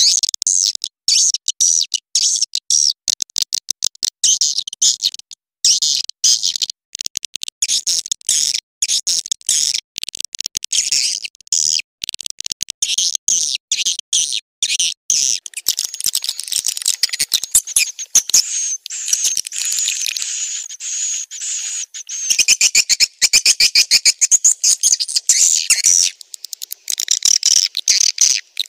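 Swiftlet calls played back as a lure track: a dense, rapid, high-pitched twittering of many chirps, broken into short bursts with brief gaps, and louder and fuller in the last few seconds. This is the call sound played in swiftlet houses to draw swiftlets in to roost and nest.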